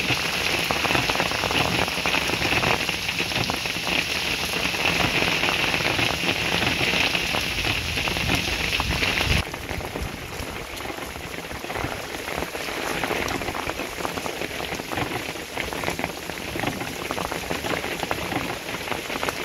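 Heavy rain falling on a flooded street, a dense steady hiss of drops on standing water and pavement. About halfway through it drops abruptly to a quieter, lighter rain.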